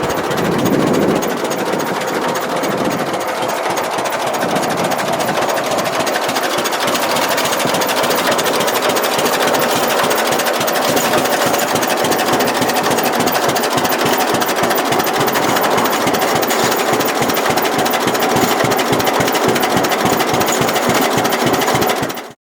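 John Deere B tractor's two-cylinder engine running steadily with a fast, even pulsing beat. The sound cuts off abruptly near the end.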